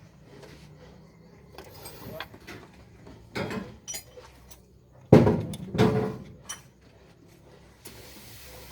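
A few sharp metal clanks and knocks of hand tools and engine parts being handled during engine work. The loudest comes about five seconds in, followed by two more in quick succession.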